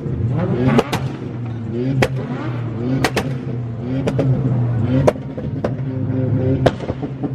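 A car engine revving again and again, its pitch climbing roughly once a second over a steady low idle. Sharp cracks go off about nine times through the revving.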